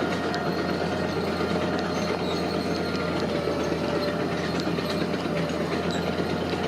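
Heavy construction machinery running steadily, with a faint steady whine and scattered small metallic clicks and squeaks.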